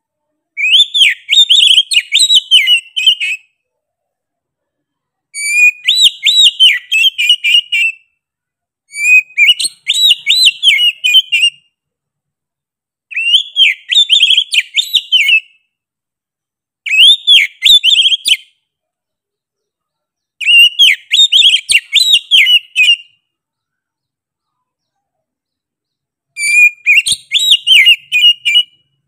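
Oriental magpie-robin (kacer) singing persistently: seven phrases of quick whistled notes and chirps, each two to three seconds long, with short pauses between.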